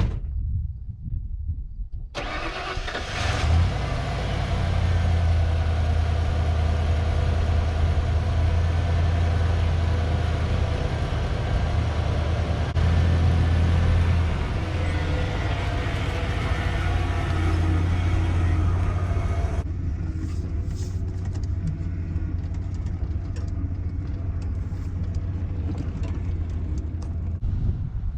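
1992 Ford F150's 302 V8 engine running with a strong, steady low drone that starts abruptly about two seconds in. About twenty seconds in, the sound turns suddenly duller as its high end drops away.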